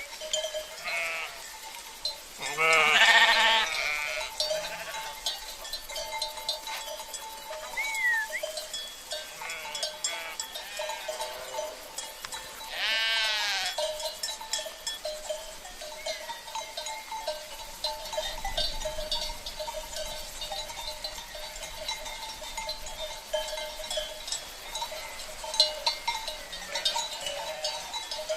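Sheep bleating, with two loud bleats about 3 seconds in and again about 13 seconds in, over the steady ringing of livestock bells (cencerros) worn by the flock.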